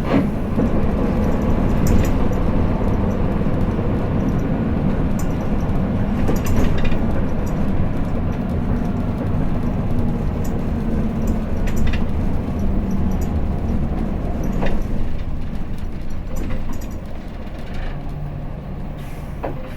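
Cabin running noise of a Hino Blue Ribbon City diesel city bus under way: a steady low engine and drivetrain drone with scattered short rattles and clicks, easing off a little near the end.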